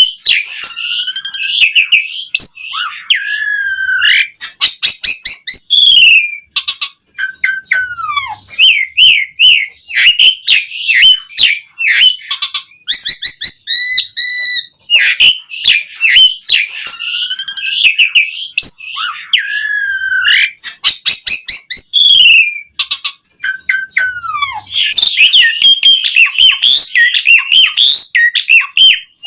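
Asian pied starling (jalak suren) singing loudly and continuously: a varied run of whistles, chattering trills and falling whistled notes. The same sequence of phrases repeats about every fifteen seconds.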